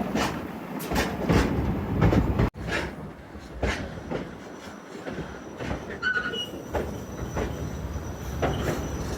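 Railway car wheels rolling over the track, with a series of clicks and knocks, and a brief high-pitched wheel squeal about six seconds in. The sound cuts out suddenly about two and a half seconds in.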